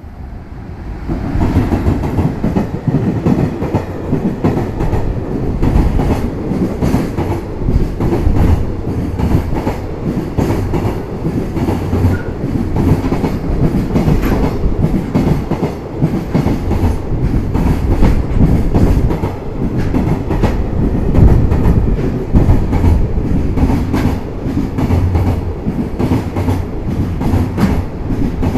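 EF210 electric locomotive hauling a container freight train through a station at speed. The locomotive's arrival brings a sudden rise in level about a second in, then a long string of container wagons rumbles past, the wheels clattering in a quick steady rhythm.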